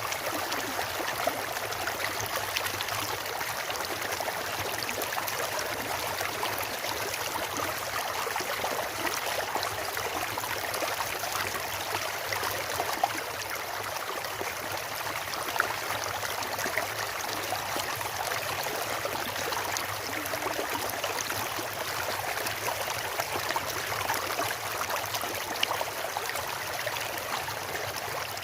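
Steady rushing of a stream of water running over rocks, with a few brief louder splashes.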